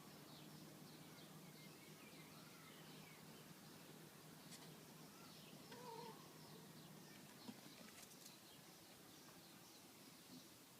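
Faint chirping of small birds in the background, with a single short, faint cat mew about six seconds in.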